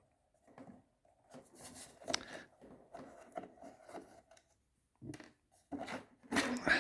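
Light handling sounds: soft clicks, knocks and rubbing as the model aircraft's parts are handled, with a few sharper knocks near the end.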